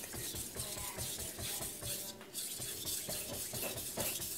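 Carbon steel knife blade scraping in repeated strokes across a wet 1000-grit glass whetstone, which is hard and gives a gritty, hissing feedback. There is a brief pause in the strokes a little past halfway.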